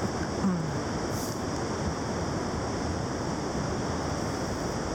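Steady rushing of creek water, an even unbroken noise.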